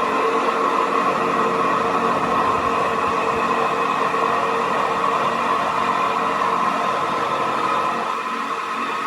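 A machine running steadily with a constant whine over a noisy hum, easing slightly near the end.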